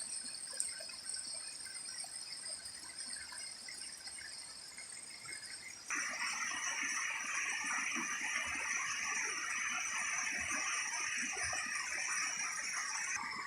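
Waterfall water rushing and splashing as a steady noisy wash. About six seconds in it turns abruptly louder and brighter. Steady high-pitched tones run underneath throughout.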